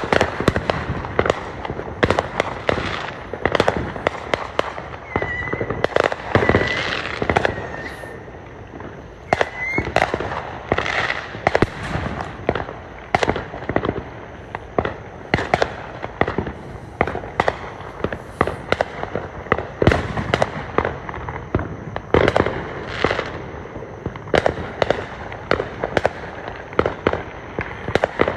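Fireworks going off in rapid succession, several sharp bangs and crackles a second throughout, with a few short whistling tones about a third of the way in.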